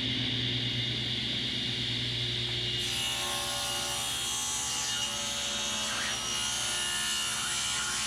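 An electric power tool running steadily on glued-up wooden boards; the sound turns brighter and hissier about three seconds in.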